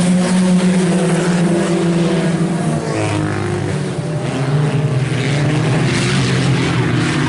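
A field of IMCA Sport Compact race cars running hard on a dirt oval: a steady, loud engine drone. The pitch drops about three seconds in and climbs again a couple of seconds later as the cars lift and get back on the throttle.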